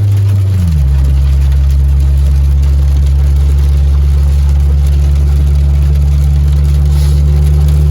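Car engine and road noise droning steadily while driving; about half a second in, the engine's pitch drops and then holds steady.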